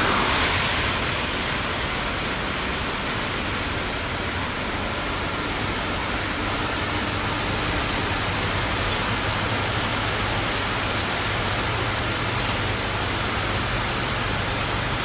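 Industrial plastic crate washing machine running: a steady rush of spraying water with a low, even hum underneath.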